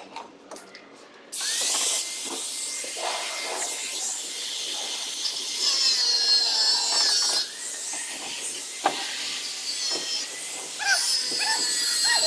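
A handheld power tool starts about a second in and runs steadily on the panel with a hissing, high whine, easing off briefly near the middle.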